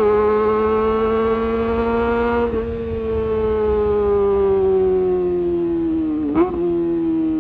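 Kawasaki ZX-25R's inline-four running at high revs through a Leovince GP Evo high-mount exhaust, a steady high-pitched howl. The pitch creeps up, breaks briefly about two and a half seconds in, then slowly sinks, with a quick dip and jump in revs near the end, like a gear change.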